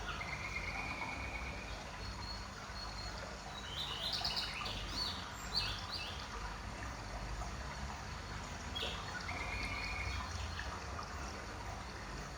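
Small birds chirping in the background over a steady low background noise. There is a short trill just after the start, a quick cluster of chirps about four to five seconds in, and another short trill near the end.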